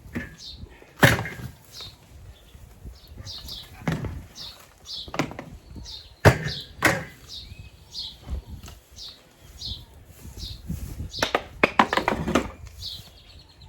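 Wooden furniture being broken up by hand: irregular hard knocks and cracks of wood being struck, with a quick run of blows near the end. A bird chirps over and over in the background.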